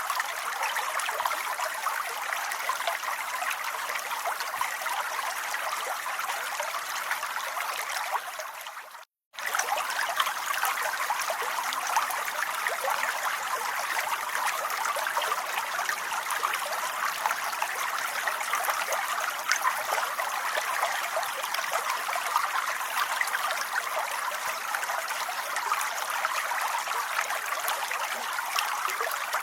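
Steady rain, an even hiss dense with the patter of drops. About nine seconds in it fades out to a moment of silence and cuts straight back in, as at the seam of a looped track.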